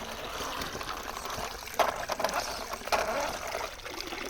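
Water trickling steadily, with two short sharp hits about a second apart near the middle.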